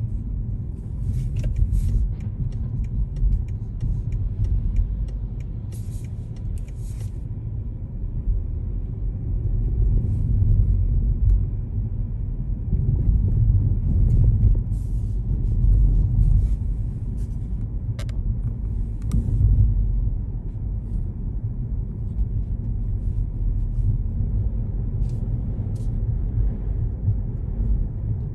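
A car driving on city roads: a steady low rumble of engine and tyres that swells and eases a little, with short high hisses now and then.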